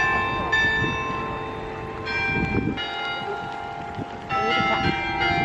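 Hallgrímskirkja's church bells ringing, several bells struck in turn with their tones ringing on and overlapping, new strikes about half a second, two seconds and four seconds in. The ringing marks eight o'clock.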